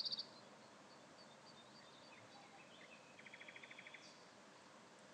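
Faint wild animal calls: scattered high chirps, then about three seconds in a short rapid trill of about ten pulses lasting roughly a second, over a low steady hiss.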